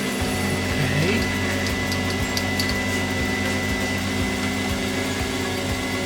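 Metal lathe running steadily under its electric motor, with a steady whine and a short rising note about a second in.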